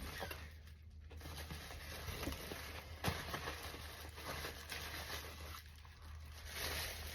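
Cardboard and packing paper rustling and crinkling as a box is unpacked by hand, with a sharp knock about three seconds in.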